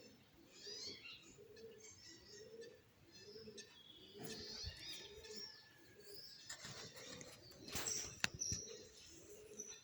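Small birds chirping and tweeting over a steady run of low, repeated cooing calls from doves. About two-thirds of the way in there is a brief rustle with one sharp click, the loudest sound here.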